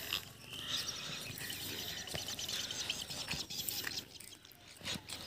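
Small birds chirping and chattering in a dense run of many short, high calls that thins out near the end, with a few sharp clicks.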